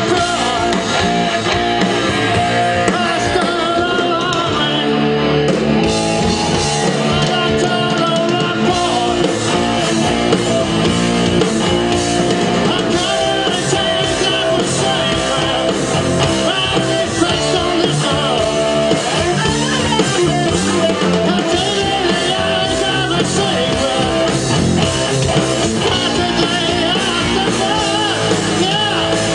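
Live rock band playing, with guitar and singing.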